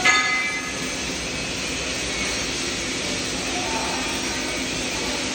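Steady hiss of welding on stainless steel, with a short ringing metal clink right at the start.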